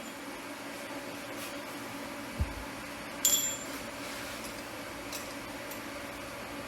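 A dull thump about two and a half seconds in, then a single sharp, ringing clink of steel on steel, over a steady low hum of shop equipment.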